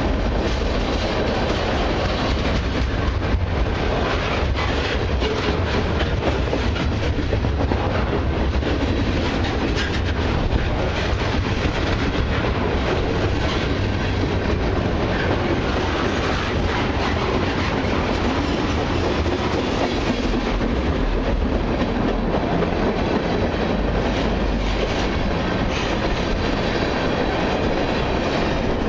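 Long freight train of autoracks and mixed freight cars rolling past, a steady rumble with wheels clicking over the rail joints.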